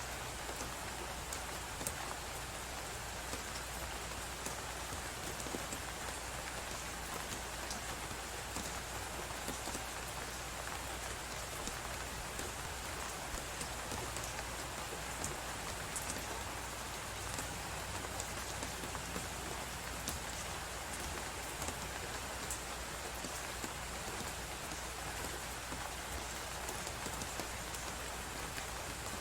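Fireplace crackling, with scattered faint snaps over a steady hiss of blizzard wind.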